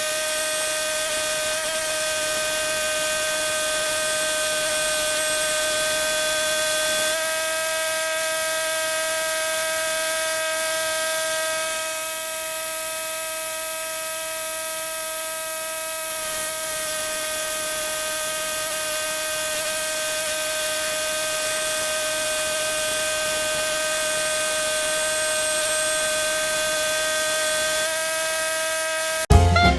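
Woodland Mills HM130 portable bandsaw sawmill running steadily with a high whine, sawing oak timber into boards. Music cuts in just before the end.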